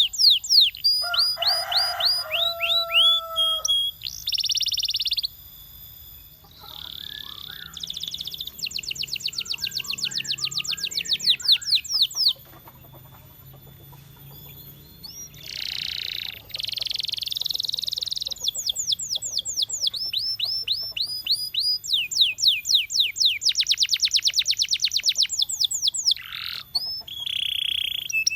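Domestic canary singing: a long song of rapid trills of repeated falling notes, changing to a new phrase every second or two, with buzzy rolls. It breaks off briefly twice, about five seconds in and again about twelve seconds in.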